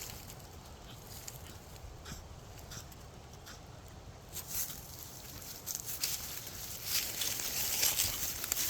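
Scattered light crunches and rustles of footsteps and dogs moving through ground cover, growing busier about halfway through, over a low rumble on the microphone.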